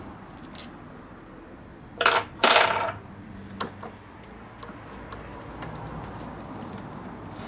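Small metal parts clinking against each other or a hard surface, two short clatters close together about two seconds in, then a few faint taps of handling.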